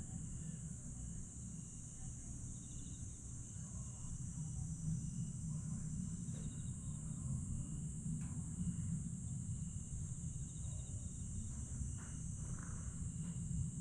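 Chorus of crickets and other grass insects singing at night, a steady high-pitched trill with a few faint chirps on top, over a steady low rumble.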